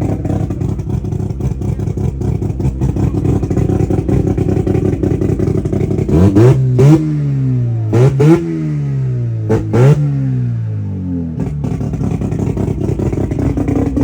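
Modified race car engine idling with a rough, pulsing note, then blipped in quick pairs three times from about six seconds in, each rev rising sharply and falling back to idle.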